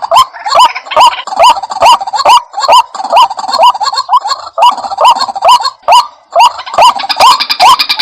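White-breasted waterhen calling: a loud, rapid run of repeated croaking notes, each rising sharply in pitch, about two and a half a second, breaking off briefly about six seconds in.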